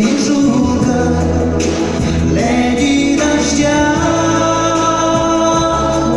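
A song with a singing voice over accompaniment, holding long notes that change pitch a few times.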